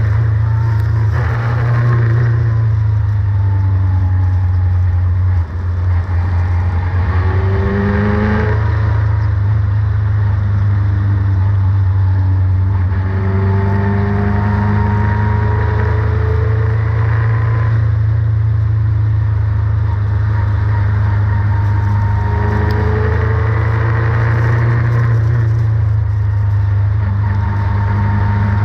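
Formula Renault race car engine running at racing speed, its pitch rising and falling repeatedly as it accelerates and eases off, over a loud steady low rumble.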